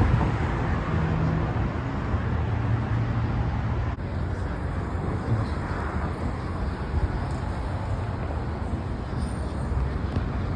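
City street traffic noise: a steady low rumble of passing vehicles with a constant hiss.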